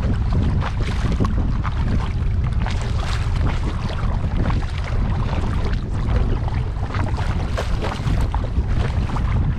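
Water splashing and lapping around a kayak as it is paddled, with wind buffeting the microphone in a steady low rumble.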